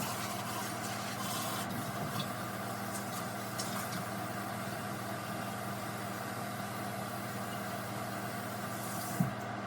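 Steady low mechanical hum of a running motor, with a short soft knock near the end.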